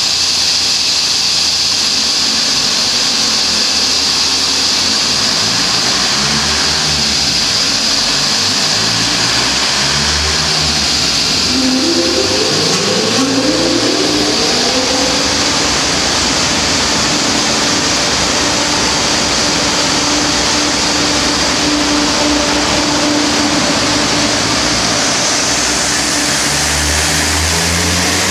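Tuned Audi A4 1.9 TDI (AFN) four-cylinder turbodiesel running on a chassis dynamometer, its engine pitch climbing quickly about twelve seconds in, then holding steady for most of the rest and rising again near the end. A loud, steady rushing noise runs under it throughout.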